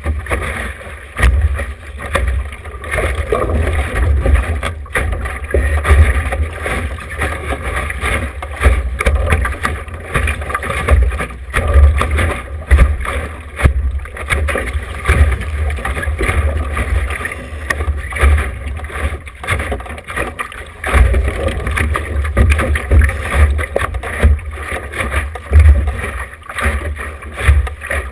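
Wind buffeting an action camera's microphone on a small sailboat under way: a loud, uneven low rumble that rises and falls with the gusts, over a steady hiss of moving air and water.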